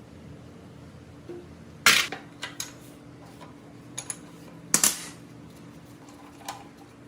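Metal parts and tools being handled on a workbench: two sharp metallic knocks about three seconds apart, with lighter clicks between them and one near the end, over a steady low hum.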